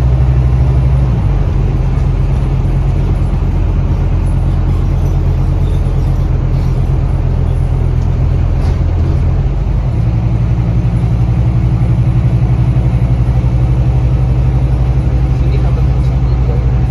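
Scania K320UB bus's five-cylinder diesel engine running with a steady deep hum, its note changing about a second in and again about ten seconds in.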